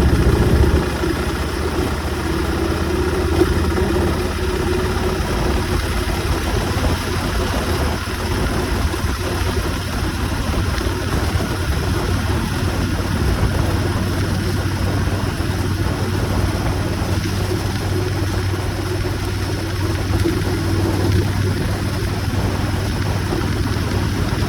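Motorcycle engine running steadily with an even rush of noise over it; a little louder for the first second, then holding level.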